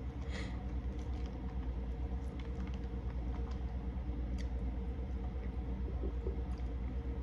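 Close-miked eating of chicken wing flats: chewing with small wet clicks and lip smacks, over a steady low hum.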